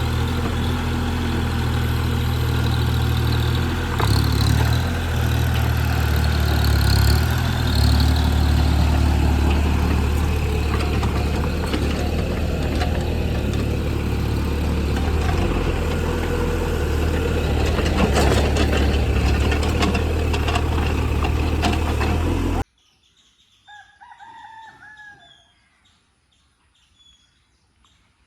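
A JCB JS30 Plus mini excavator's diesel engine runs steadily with a low drone, swelling a little for a few seconds as it works. It cuts off abruptly near the end, and a rooster crows once against small birds chirping.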